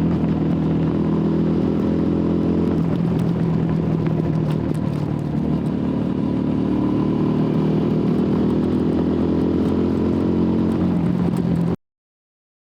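TVS Apache RTR 200 4V's single-cylinder engine running through its stock exhaust at steady throttle while riding, with light clattering over the trail. The engine eases off slightly a few seconds in, then picks up again, and the sound cuts off suddenly near the end.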